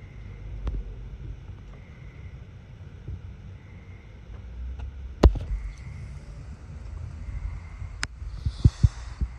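Fire-pit embers with a few sharp pops, one about five seconds in, another about eight seconds in and several close together near the end, over a low rumble of wind on the microphone.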